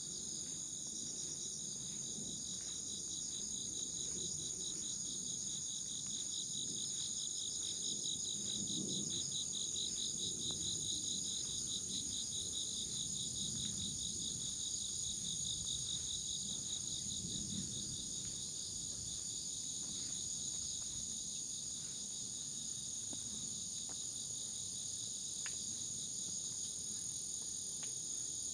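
A steady, high-pitched chorus of insects with a fast pulsing trill, over faint, regular footsteps on a forest path.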